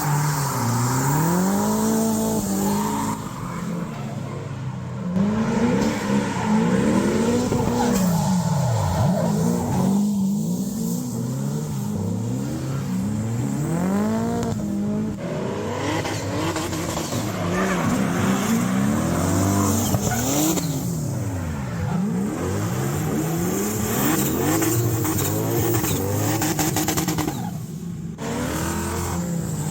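Drift car engine revving high and dropping back again and again as the throttle is worked through slides, with tyre squeal underneath.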